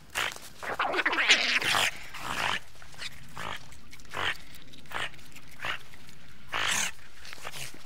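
A group of otters calling: a dense run of high squealing cries for the first two and a half seconds, then short single calls about once a second.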